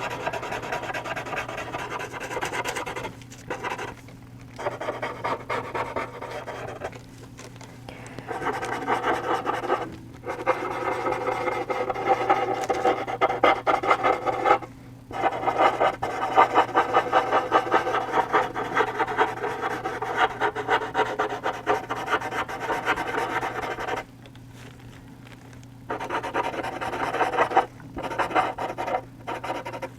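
Paper blending stump rubbed in small, quick circles over charcoal on textured charcoal paper: a fast, scratchy rubbing in long runs, broken by a few short pauses.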